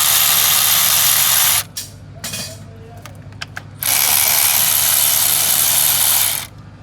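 Compressed air from a workshop air line hissing loudly in two long blasts, each a few seconds long, with a pause between them. A steady low hum runs underneath.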